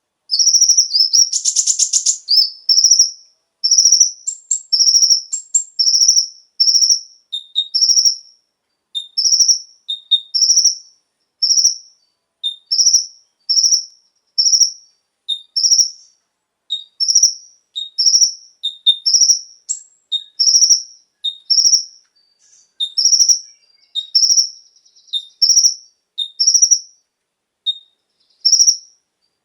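Kolibri ninja (konin) sunbird calling: a steady run of short, high chirps, about one or two a second, many followed by a slightly lower note, with a brief dense trill about a second in.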